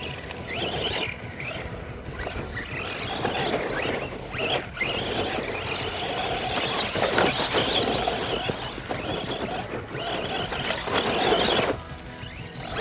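Radio-controlled cars being driven, their motors whining in short glides that rise and fall with the throttle over a steady noisy rush of tyres on rough ground.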